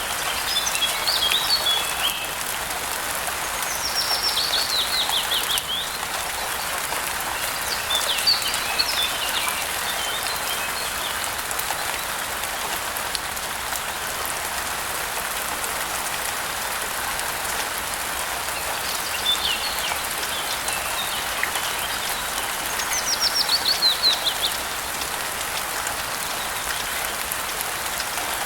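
Steady rain, with small birds chirping over it in short bursts every few seconds. Twice, near the start and near the end, a bird gives a quick trill that falls in pitch.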